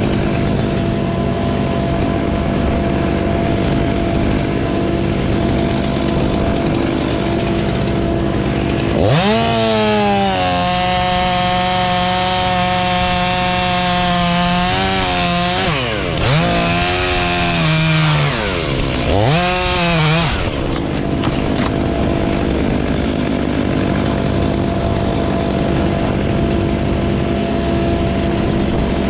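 Chainsaw revved up to full throttle about nine seconds in and held high, then let off and revved again twice before stopping about twenty seconds in. A steady engine runs underneath the whole time.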